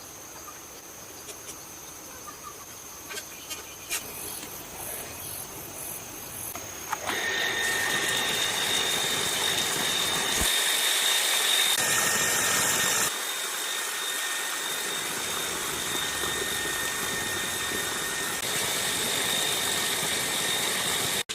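Repaired electric self-priming water pump switching on about a third of the way in and then running steadily with a high whine. Before it starts there are only faint small clicks.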